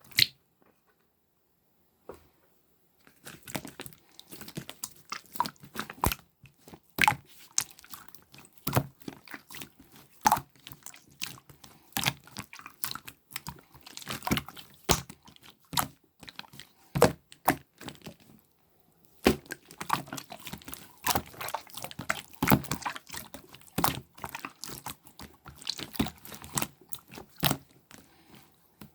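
Clear slime being squeezed and stretched by hand, giving a dense, irregular run of sticky clicks and pops from trapped air, with a brief pause a little past the middle.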